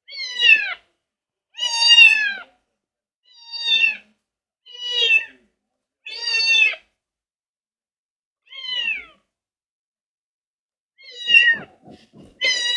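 Cat meowing repeatedly, about eight meows a second or two apart, each falling in pitch, with a pause of a couple of seconds near the end. The cat is nervous.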